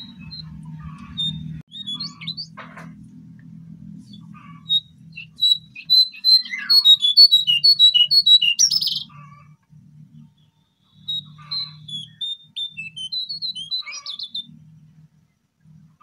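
Cingcoang coklat (jongkangan) singing: a fast run of high chirping notes in two phrases, the first and louder from about five to nine seconds in, the second shorter near the end, over a low hum.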